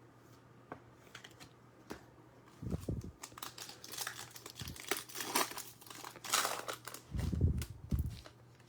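The wrapper of a pack of Panini Select football trading cards being torn open and crinkled. It starts with a few light clicks, then a dense crinkling, with low handling thumps about three seconds in and near the end.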